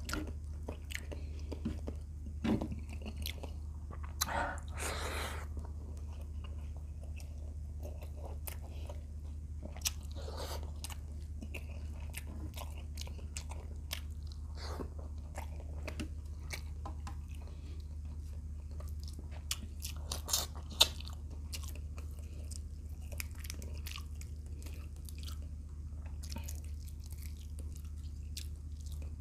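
Close-up chewing and biting of a person eating fried tilapia and rice by hand, with crunches and many short sharp mouth clicks. A steady low hum runs underneath.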